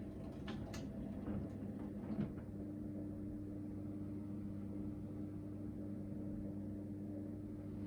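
Hoover VHD 9163 ZI washing machine at the start of its first spin after the main wash: a steady machine hum, with a few sharp clicks and knocks in the first two seconds.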